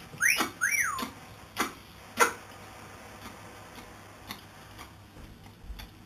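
Blue-fronted amazon parrot giving two short whistled calls that rise and fall, near the start. A few sharp taps about every half second go with them, then things go quiet.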